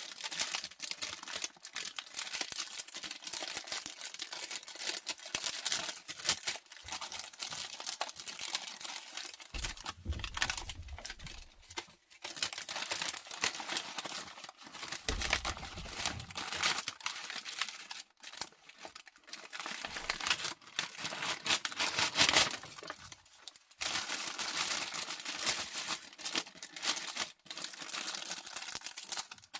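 Plastic packaging crinkling and rustling as a diamond painting kit is unwrapped and handled, with a couple of dull bumps.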